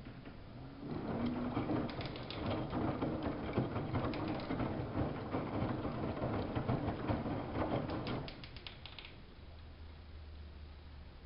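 Samsung front-loading washing machine mid-wash: the drum turns for about seven seconds with laundry and water sloshing and small clicks, then stops.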